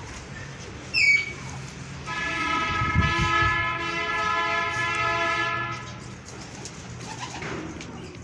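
A single sharp, falling bird chirp about a second in, then a horn sounds one steady, many-toned blast for about four seconds.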